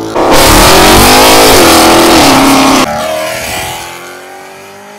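A car engine revving hard at full throttle, loud enough to distort the recording, its pitch falling; about three seconds in it drops abruptly to a quieter engine note that slowly rises in pitch.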